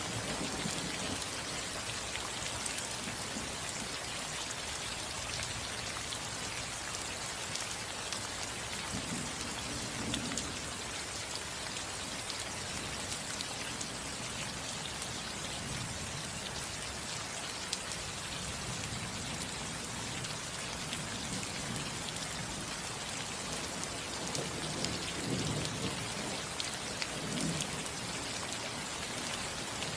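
Steady rain falling on a house roof: a dense, even patter of drops without a break.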